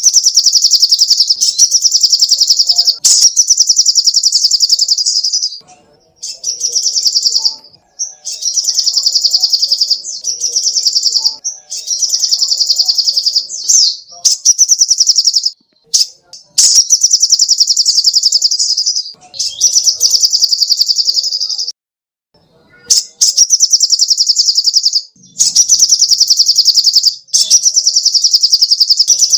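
Sogok ontong (little spiderhunter) singing: high, rapid trills of fast-repeated notes in phrases of one to three seconds, broken by short pauses, about a dozen in a row.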